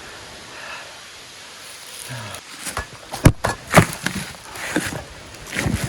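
Boots scrambling down a steep, pathless dirt slope. After a couple of seconds of quiet hiss come irregular crunches and scuffs of footsteps on soil and leaves, some of them sharp and loud.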